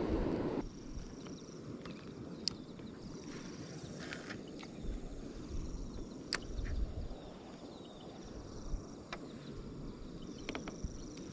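Insects chirping in short high trills, several times over, with a few sharp clicks and a low rumble of wind on the microphone beneath.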